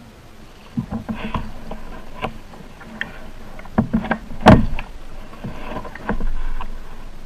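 Kayak and paddle knocking: a run of irregular hollow knocks and bumps, the loudest about four and a half seconds in, with short washes of noise between them.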